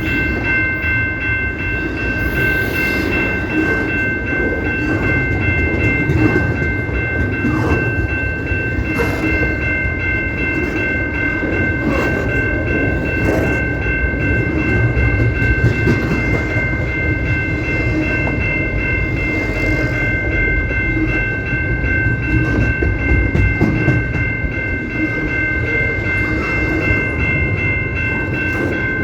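Canadian Pacific train rolling past with a steady rumble and clatter, under a continuous high-pitched chord of three steady tones held the whole time.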